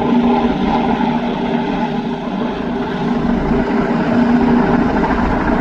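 Search-and-rescue helicopter hovering close by: steady rotor and engine noise with a held low hum.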